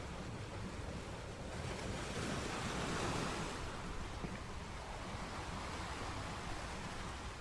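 Sea surf: waves washing onto the shore, one swelling to a peak about two to three seconds in and then easing back.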